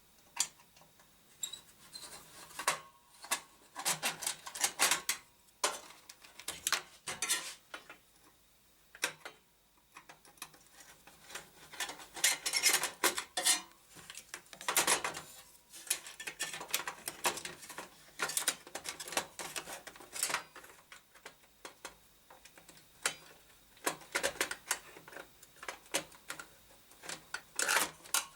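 Irregular clicks and clatter of small hard objects and tools being handled on a workbench, some in quick clusters, with short quiet gaps between them.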